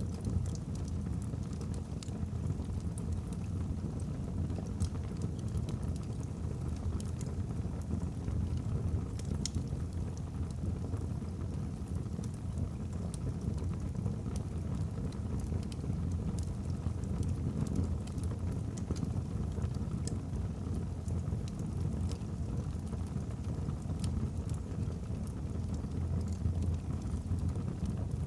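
Wood fire burning in a fireplace: a steady low rush of flames with scattered sharp crackles and pops from the logs.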